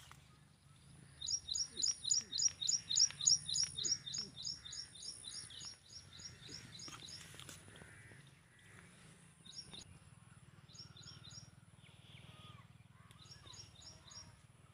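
A songbird calling in a fast run of sharp chirps, about five a second, loudest in the first few seconds and then fading. Shorter bursts of three or four chirps follow later.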